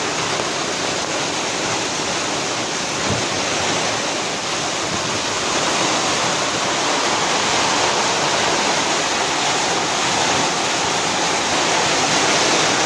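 A steady rush of water from heavy rain or flooding, growing a little louder about halfway through.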